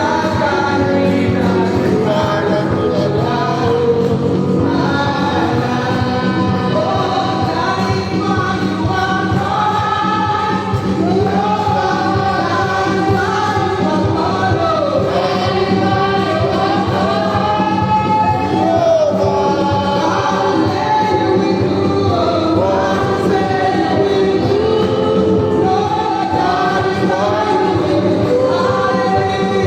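A church choir singing a gospel song, several voices holding and sliding between long notes over a steady low accompaniment.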